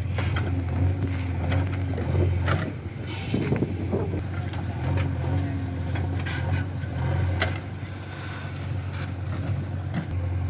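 Heavy machinery's diesel engine running steadily with a low drone, with short knocks and clanks scattered throughout.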